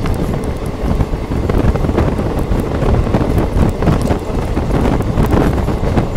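Moving passenger train heard from an open coach window: wind rushing over the microphone and a loud, steady rumble of wheels on rails, with scattered clicks, while a second train's coaches run alongside on the next track.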